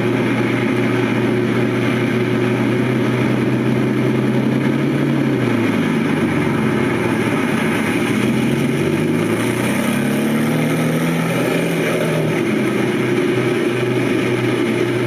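A Lamborghini Countach 5000 QuattroValvole's V12 running steadily, then revved up and down a few times through the middle before settling back to a steady run.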